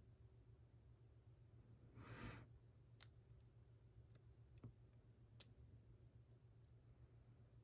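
Faint, sparse clicks of a lock pick working the inner pins of a Mul-T-Lock Classic telescoping-pin padlock core, about four small clicks over a few seconds. A soft breath comes about two seconds in, and a low hum runs underneath.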